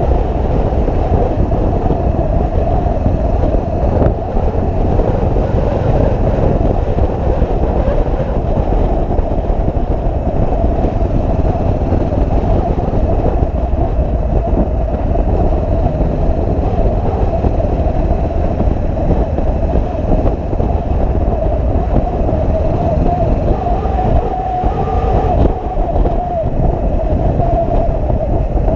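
Motorcycle under way: a steady, loud mix of engine and road and wind rumble.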